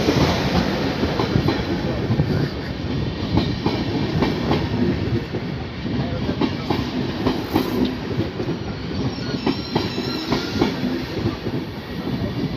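A train of SBB passenger coaches rolling past close by, a steady rumble with wheels clacking over the rail joints. A faint high wheel squeal comes in about nine seconds in.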